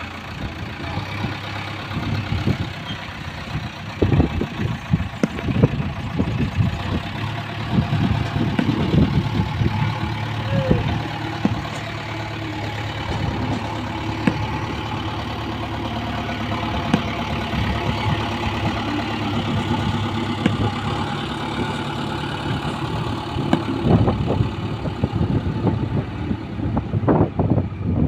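Heavy-vehicle diesel engine idling steadily, with irregular low rumbles over it.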